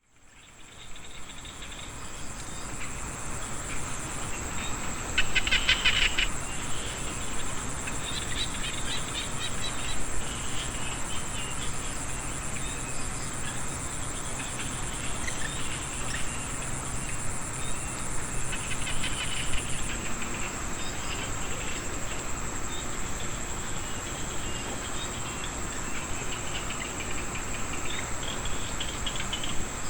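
Frogs and insects calling together after rain: a steady high-pitched insect trill runs throughout, while trains of rapid frog calls rise and fade several times. The chorus fades in over the first second or so.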